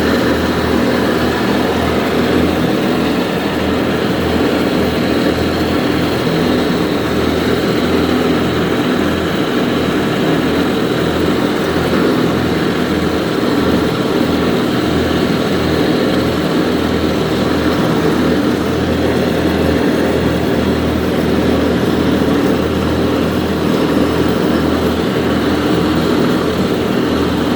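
1941 Farmall A tractor's four-cylinder engine running steadily, with a low, even pulse.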